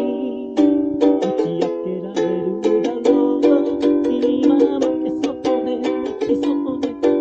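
Ukulele playing chords with several strokes a second, with no singing.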